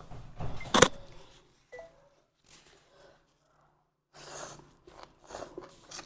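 Close-up eating noises: a single sharp click about a second in, then soft, scattered chewing and handling sounds.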